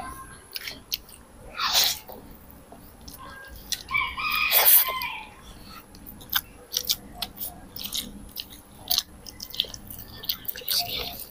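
Close-miked chewing of pancit canton instant noodles, full of wet mouth clicks and smacks. A louder, longer noisy sound comes about four to five seconds in.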